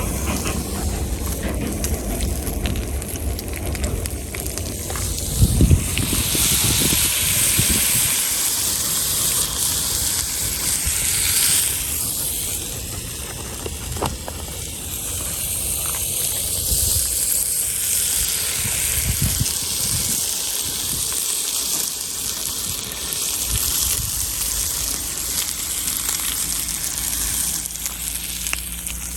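A passing train rumbles low for the first several seconds and fades out about six seconds in. After that a steady high hiss runs on, the wood fire burning in the campfire stand.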